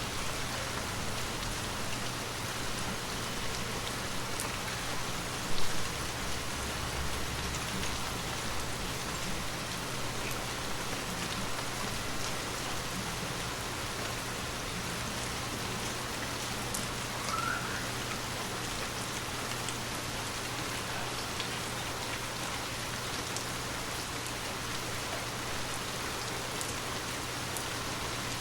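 Gentle rain falling steadily, an even hiss of drops with a low steady hum underneath. A single brief thump about five and a half seconds in.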